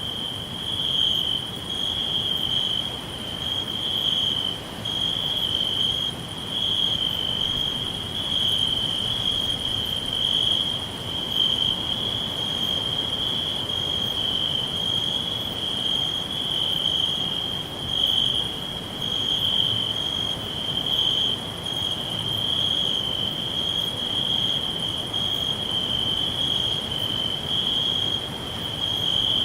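Crickets chirring continuously in a high, steady trill that swells and dips slightly every second or so, over a faint background hiss.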